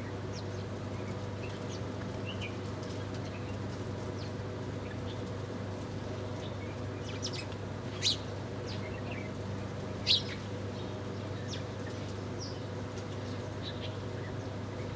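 Small birds chirping at a feeder: short, scattered chirps, with two louder sharp calls about eight and ten seconds in. A steady low hum runs underneath.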